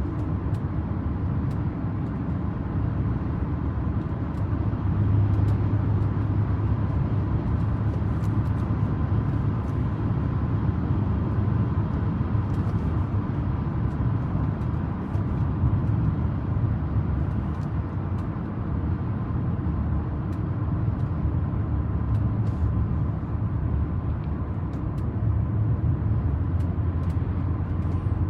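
A 1998 Audi A8 running: a steady low rumble with small swells in level and a faint steady hum above it.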